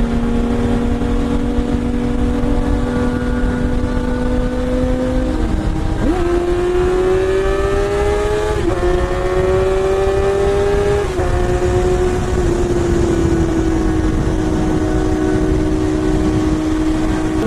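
BMW S1000RR inline-four engine under way, with wind rushing past. It holds a steady note, then about six seconds in it pulls harder with a rising pitch through two quick upshifts, and afterwards eases off slowly.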